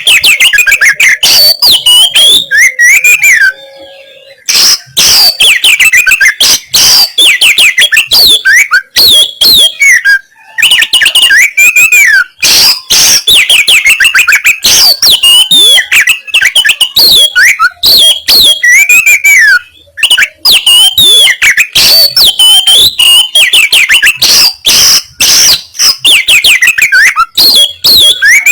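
Oriental magpie-robin (kacer) singing loud, fast, harsh song: rapid runs of sharp scratchy notes mixed with clear whistles, breaking off briefly a few times.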